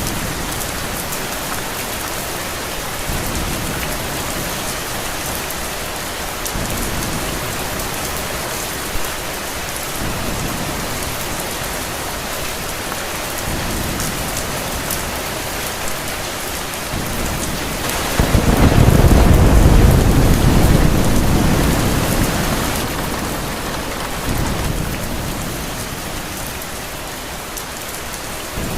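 Steady heavy rain with a few soft low rumbles of thunder. About two-thirds of the way through, a long, deep roll of thunder swells up to become the loudest sound, then fades over several seconds.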